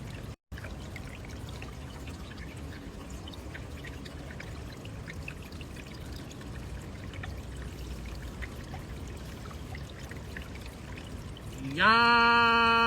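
Steady rushing and trickling of running water. About a second before the end, a loud hummed note comes in, sliding up briefly and then held steady on one pitch.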